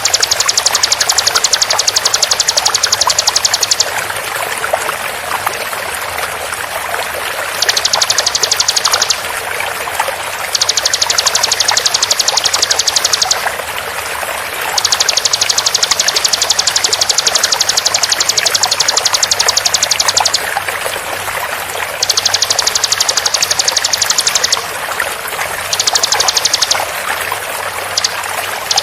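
Bar-winged prinia (ciblek) giving its rapid-fire song: about seven bursts of very fast, evenly spaced high-pitched notes, each lasting one to five seconds, with short pauses between. Flowing water runs steadily underneath.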